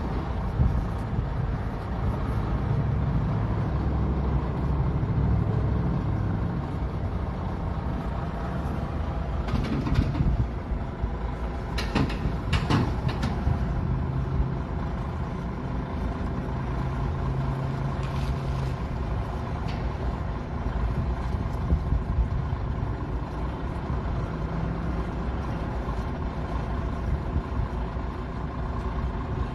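Heavy diesel equipment running steadily with a low rumble, with a few short sharp hissing or clanking sounds about ten and twelve seconds in.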